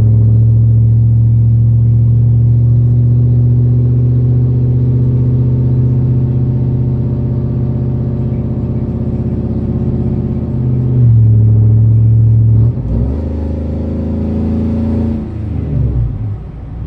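Pickup truck's engine and exhaust heard from inside the cab with the windows up, through true dual pipes with an X-pipe, single-chamber Flowmaster 10-series mufflers and no catalytic converters. It gives a steady low rumble while cruising. About two-thirds through it gets louder, then the note drops and climbs again as the revs change, and eases off near the end.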